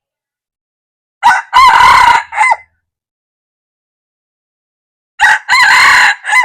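Red junglefowl cock crowing twice, about four seconds apart. Each crow is a short, clipped phrase: a brief first note, a longer held middle and a quick falling end note.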